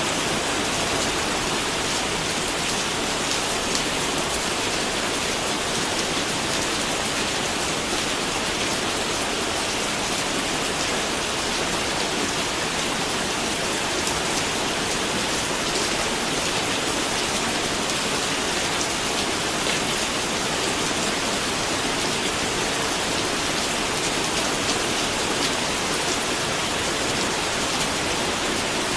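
Steady rain falling, an even hiss of many drops hitting a surface, with no change in strength.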